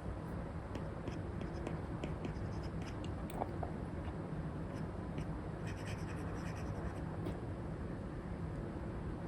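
Apple Pencil 2 with an Elecom nib writing on a paper-like screen film over an iPad: a scatter of small ticks and scratches from the pen strokes, which stop about three-quarters of the way through. Under it runs a steady hiss of white noise.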